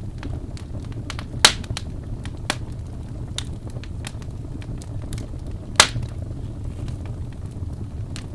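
Wood fire crackling: a steady low rumble with scattered sharp pops, two of them loud, about a second and a half in and near six seconds in.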